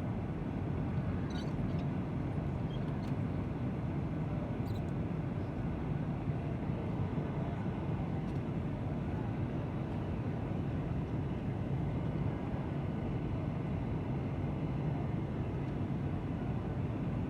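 Steady low drone of a passenger airliner's engines and rushing air, heard from inside the cabin, with a few faint ticks.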